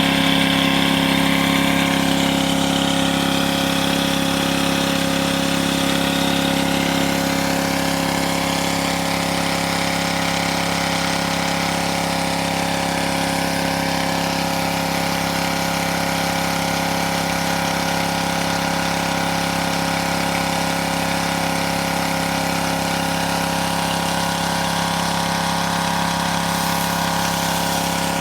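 Engine of a crop-watering boat running steadily, driving its water pump.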